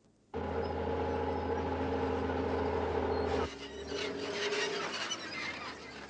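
A vehicle engine running steadily. It starts suddenly just after the beginning and cuts off about three and a half seconds in, giving way to a quieter noisy background with scattered light clicks.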